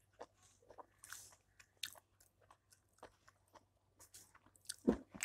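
Faint chewing and wet mouth clicks of a person eating chicken and rice by hand, over a faint low hum. A louder knock comes near the end.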